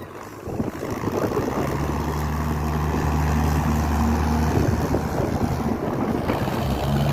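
Forklift engine running with a steady low drone, which eases off briefly near the end and then comes back, over rushing wind on the microphone.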